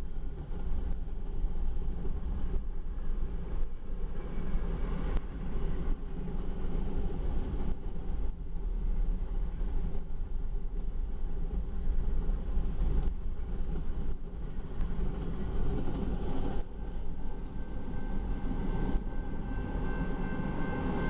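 Freight train of grain cars rolling past, a steady rumble of steel wheels on rail with irregular clicks and clatter. A faint high steady tone comes in near the end.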